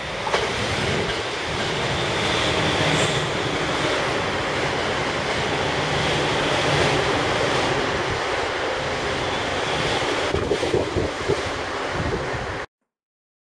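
JR East Tohoku Line electric commuter train running directly beneath, a steady rush of wheels on rail with some clatter of wheels near the end, then the sound cuts off abruptly.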